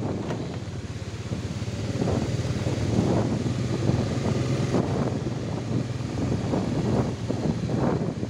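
Motorcycle engine running steadily, with wind gusting on the microphone.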